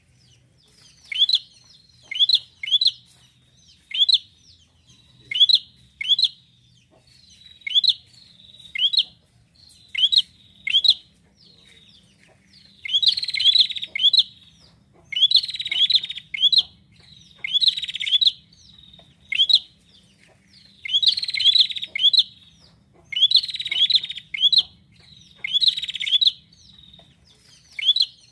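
Prenjak (prinia) calling: sharp, high, clipped notes in quick groups of two or three, repeated every second or two. From about halfway the groups are joined by harsh buzzy rattles.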